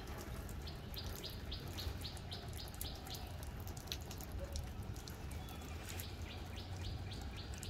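A small bird chirping a quick run of short high notes, about three a second, in two spells a few seconds apart, over a faint low outdoor rumble.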